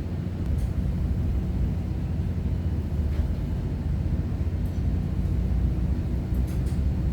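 Tanker's engine running with a steady low rumble during unmooring manoeuvres.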